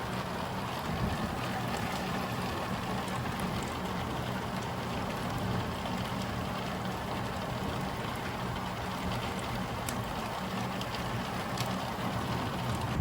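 Heavy rain pouring steadily onto a roof and a Velux roof window in a violent thunderstorm. It is a dense, even rush with scattered faint ticks.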